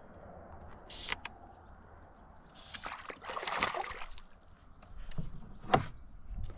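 Water splashing and sloshing beside a canoe as a hooked fish is fought on a fly rod. There is a longer splashing burst around the middle and a few sharp knocks, the loudest near the end.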